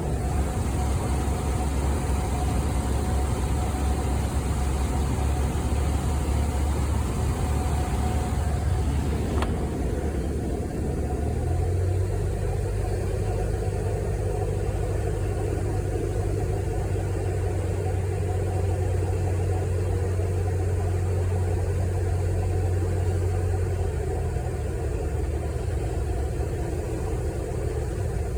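Steady low engine drone of a vehicle, its tone shifting about ten seconds in and then holding steady.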